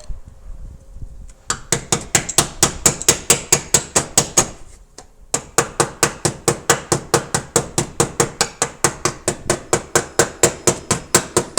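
Body hammer tapping out a dent in a Toyota Mark X's sheet-metal panel, in rapid even strikes about five a second with a metallic ring. It comes in two runs, with a short break about five seconds in.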